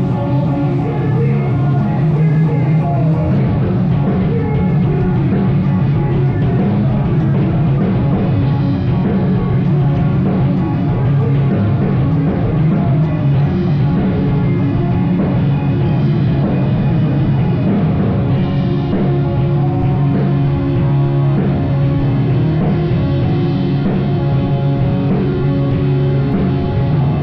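Rock band playing live, loud and continuous, with a drum kit driving it and no singing.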